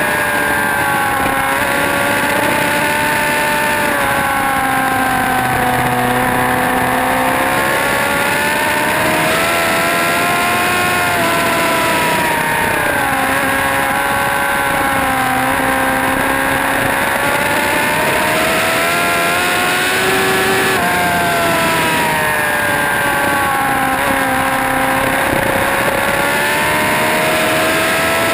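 Motorcycle engine at speed on a racetrack, its revs climbing and dropping in long swells every several seconds as it is ridden through corners and shifted, with a steady rushing noise underneath.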